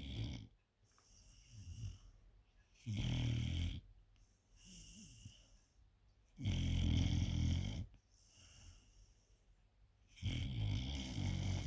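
A four-month-old puppy snoring in its sleep: four loud snores about three and a half seconds apart, with softer breaths between them.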